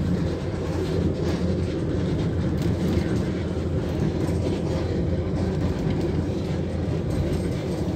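Darjeeling Himalayan Railway toy train running, heard from aboard: a steady low rumble and rattle of the carriage on the narrow-gauge track.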